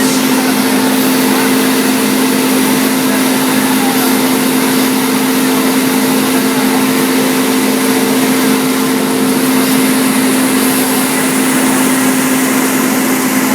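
Wide belt sander running steadily: a constant machine hum with a strong low tone under an even hiss.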